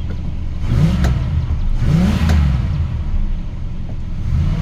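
The 440 cubic-inch big-block V8 of a 1977 Dodge Adventurer pickup, running at idle and revved twice, each rev rising and falling quickly; a third rev starts near the end. The owner hears it as a nice, healthy engine.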